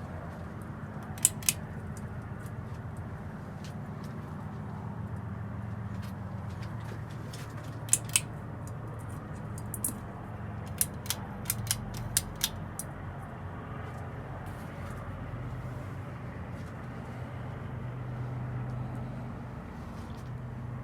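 Hampton Bay Minuet II ceiling fan running with a steady low motor hum. Sharp clicks cut through it: two about a second in, two more about eight seconds in, and a quick run of clicks around eleven to twelve seconds.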